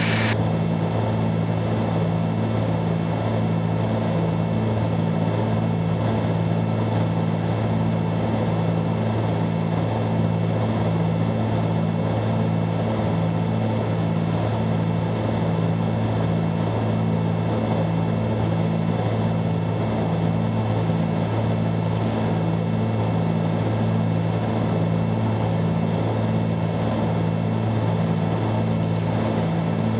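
Twin piston engines and propellers of a 1974 Cessna 310Q droning steadily in flight, heard inside the cabin, with a slow, even pulsing beat in the hum.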